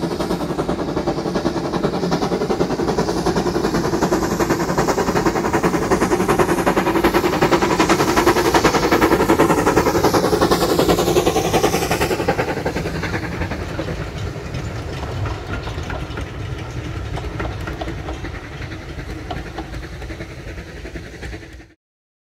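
Steam-hauled heritage passenger train passing along the line, its coaches' wheels clattering on the rails. The sound swells to a peak as the train goes by, fades as it draws away, and cuts off suddenly near the end.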